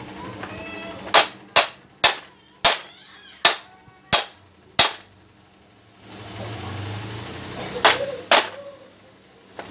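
Hammer blows, struck one at a time: seven sharp strikes about half a second to three-quarters of a second apart, then a pause and two more strikes about eight seconds in.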